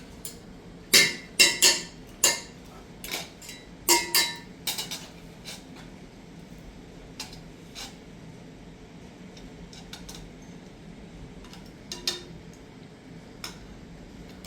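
Dishes and utensils clinking and clattering: a quick run of sharp clinks, some briefly ringing, in the first few seconds, then a few scattered clinks.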